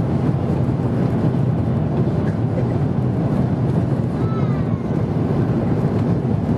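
Steady cabin noise inside an Airbus A330-200 in flight before landing: the even rumble of the engines and rushing air, heaviest in the low range.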